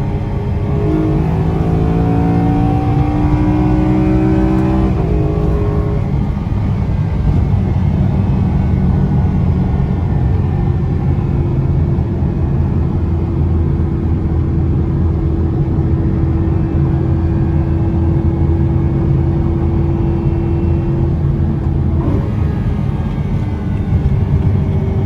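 BMW E93 M3's S65 V8 engine under hard acceleration: the engine note climbs for a few seconds, drops at a gear change about five seconds in, then settles into a steady drone while cruising.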